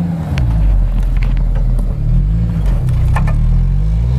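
Off-road SUV engine revving in repeated surges, rising and falling, as the vehicle fights for grip on a steep snowy climb and keeps sliding back. A few sharp cracks sound over it.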